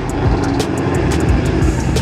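A car engine running loudly with a steady low drone.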